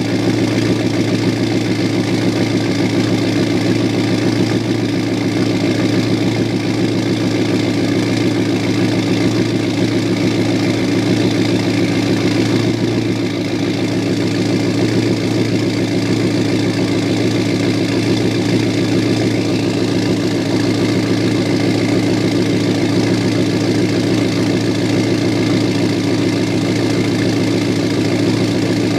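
Ford 6.0 Powerstroke V8 turbo-diesel idling steadily while still cold, shortly after a cold start in sub-freezing weather.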